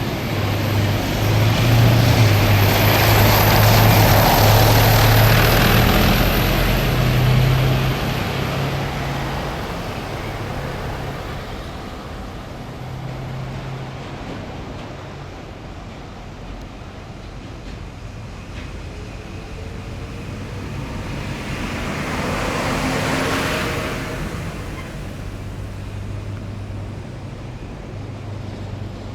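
Heavy military vehicles driving past on a city street. A loud engine rumble and road noise swell over the first few seconds and fade away. A second vehicle passes about 23 seconds in, its pitch falling as it goes by.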